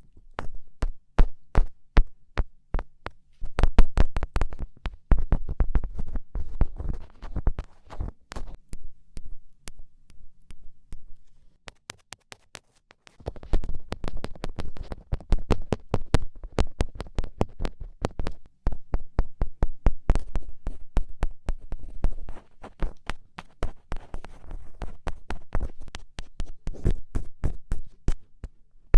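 A series of sharp taps, two or three a second and quicker in bursts, with a pause of a couple of seconds about halfway through.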